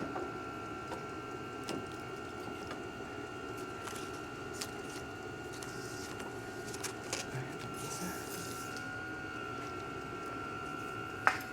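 A machine's electric motor running steadily with a high whine, under scattered light metal clicks and one sharp knock near the end.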